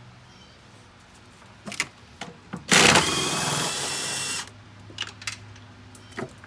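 Power tool running in one burst of about a second and a half, sharpest and loudest at its start, with a few light clicks and taps before and after it.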